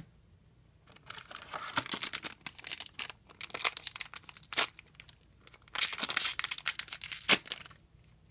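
A foil trading-card booster pack being torn open and crinkled, in several spells of rustling with brief pauses between them.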